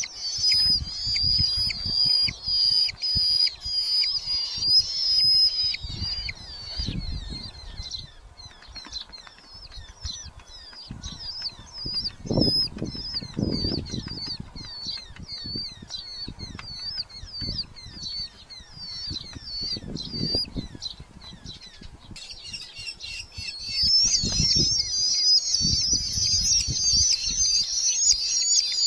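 Red-footed falcon chicks giving high-pitched repeated calls in the nest box, at first drawn out, then short calls about twice a second, growing louder and denser near the end. Low thumps and wing flapping from the chicks moving about come in now and then.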